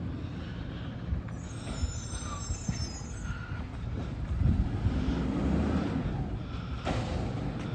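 Garbage truck running with a steady low rumble, a brief high-pitched squeal about two seconds in, and a few light knocks.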